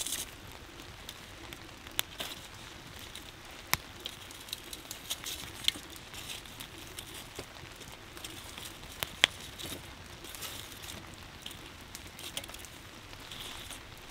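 Wood campfire crackling with scattered sharp pops, the loudest about two, four and nine seconds in, over a steady patter of rain.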